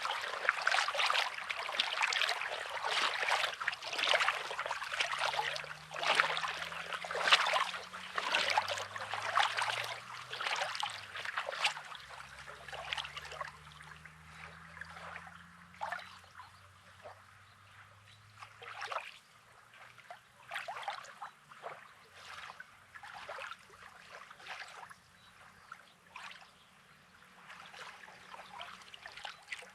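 Small sea waves washing and trickling over the pebbly shore in irregular splashes, busiest for the first dozen seconds and then quieter and more sparse.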